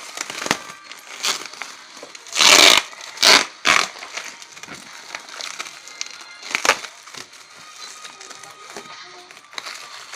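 Inner packing wrapped around a new bench grinder being pulled and torn off: crinkling and crackling throughout, with one long loud rip about two and a half seconds in, two shorter ones just after, and another near seven seconds.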